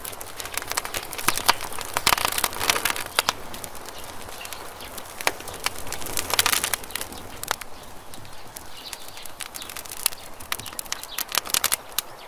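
Campfire crackling and popping, with bursts of sharp snaps coming in clusters over a soft hiss of burning wood.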